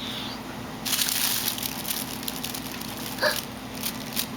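A short burst of hissing, gushing noise about a second in, followed by scattered crackles, from a homemade soap-foam volcano erupting.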